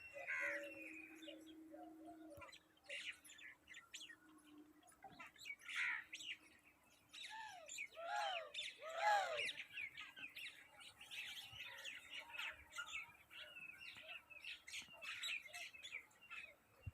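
Birds chirping and calling, many short chirps throughout, with a run of three arched, rising-and-falling calls about eight to nine seconds in as the loudest part.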